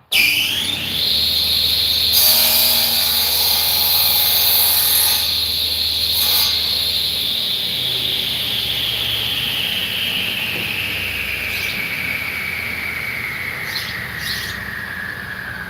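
A woodworking power tool's motor whine. It climbs to a high pitch in about a second, then falls slowly and evenly as the machine coasts down. A brief hiss joins it from about two to five seconds in.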